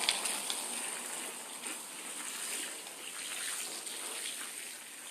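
Garden hose spraying water onto rubber anti-fatigue mats: a steady spray and splatter of water, easing off a little near the end.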